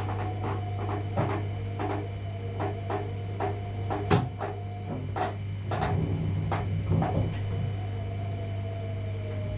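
Thurbo electric local train running, heard inside its driver's cab: a steady low hum and a faint motor whine that sinks slightly in pitch in the later seconds, with irregular clicks and knocks from the wheels and the cab, the sharpest about four seconds in.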